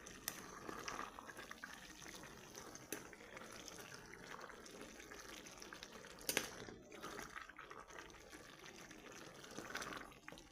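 Pot of sarapatel stew simmering, a faint bubbling with small crackles, and one sharp knock about six seconds in.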